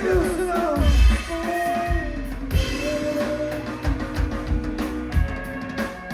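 Live band music: a drum kit hitting under pitched instrument lines that slide downward near the start, then settle into held notes.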